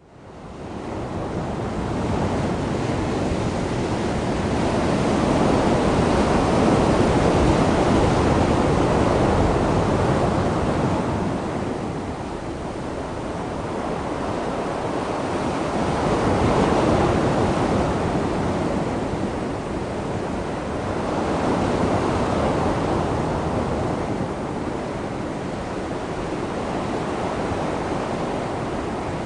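Sea waves washing ashore in a continuous rushing wash that swells and eases slowly every several seconds.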